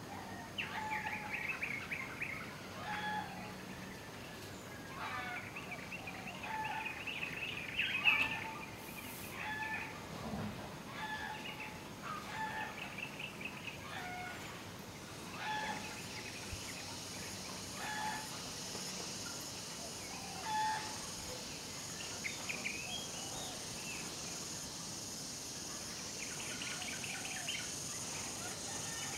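Birds calling: short calls repeated every second or two, with bursts of chattering chirps. A steady high hiss comes in about halfway.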